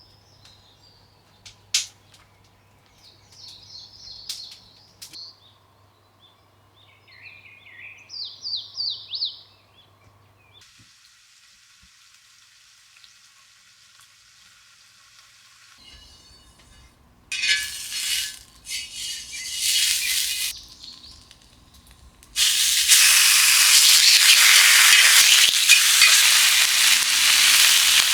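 Small birds chirping for the first third. After that comes a few seconds of faint hiss, and about two-thirds of the way in, food hits a hot pan and starts frying with a loud, steady sizzle.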